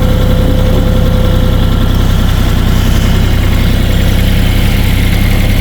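Kioti CK3520 hydrostatic compact tractor's three-cylinder diesel engine running steadily.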